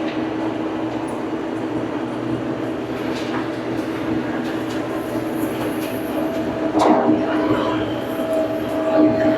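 Old farm tractor's engine running steadily under way, a constant drone with a sharp knock about seven seconds in.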